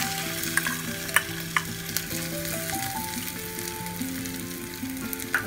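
Mustard seeds and freshly added grated coconut sizzling in hot coconut oil in a small pan, a steady hiss with a few sharp pops: the tempering being fried.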